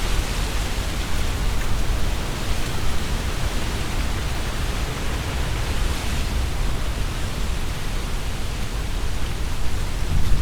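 Strong wind blowing through trees, leaves rustling steadily, with a heavy low rumble from the gusts.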